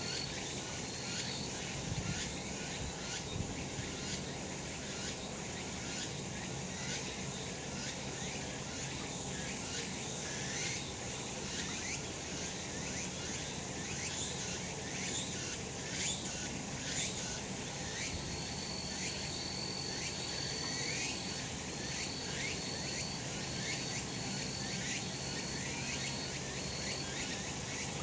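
Cicadas singing: a dense run of short, rapid high chirps, joined about two-thirds of the way through by a thin high tone in short pulses.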